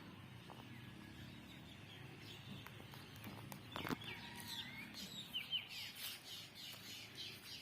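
Small birds chirping faintly, a run of quick, falling chirps starting about halfway in, with a single sharp click just before them.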